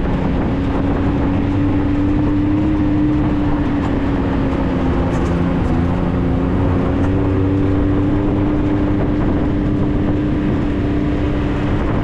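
Vehicle driving along at a steady pace: a loud, even engine and drivetrain drone whose pitch drifts only slightly, over a steady rush of road noise.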